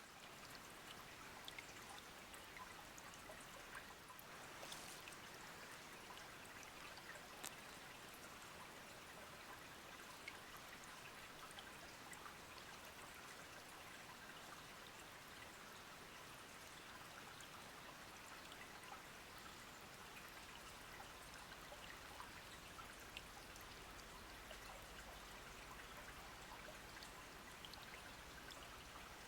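A small stream trickling and babbling, faint and steady, with a few faint ticks scattered through it.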